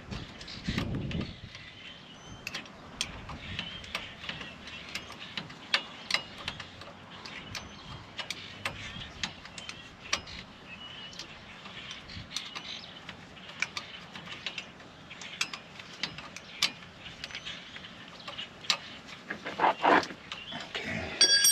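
Scattered clicks, ticks and light knocks of hand tools and metal parts being handled during hands-on front-suspension work on a pickup truck, with a few louder knocks shortly before the end and a brief ringing metallic clink at the very end.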